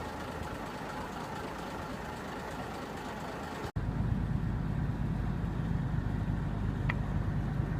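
Ferry's engine running with a steady low drone over general boat and water noise. About four seconds in, the sound cuts out abruptly and comes back louder and deeper.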